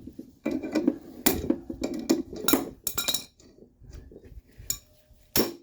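Sharp metallic taps and clinks, irregularly spaced and ringing briefly, as a coil-spring compressor is tapped and worked loose from a strut's spring; most come in the first three seconds, with a couple more near the end.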